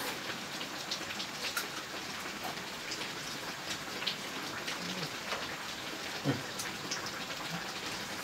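Steady rain pattering, with scattered single drops ticking on a hard surface and one dull thud about six seconds in.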